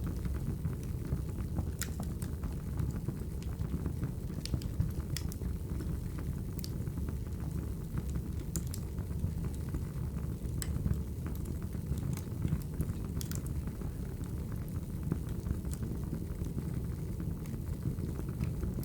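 Logs burning in a fireplace: a steady low rumble of the fire with scattered sharp crackles and pops from the wood.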